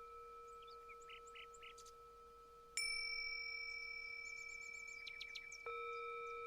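Small birds chirping in short notes and quick sweeps over long, ringing bell-like chime tones. A new chime is struck about three seconds in and another near the end, each fading slowly.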